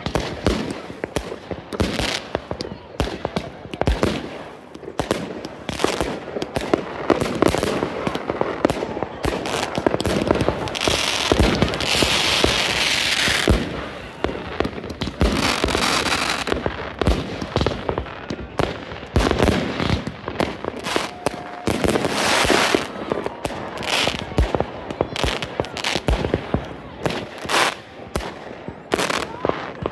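New Year fireworks going off continuously: many sharp bangs and pops at irregular intervals, with spells of dense crackling, loudest about eleven to fourteen seconds in.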